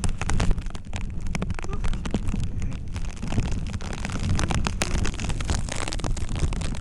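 Hurricane-force wind buffeting the microphone in a steady low rumble, with many sharp clicks throughout, typical of rain striking.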